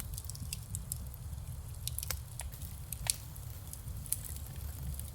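Wood fire in a fire pit crackling, with scattered sharp pops over a steady low rumble, freshly added pieces burning.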